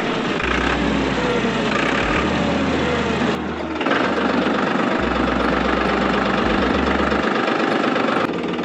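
Homemade toy tractor running steadily with an engine-like noise while it pulls a spring-tine cultivator through sand. The noise dips briefly about three and a half seconds in.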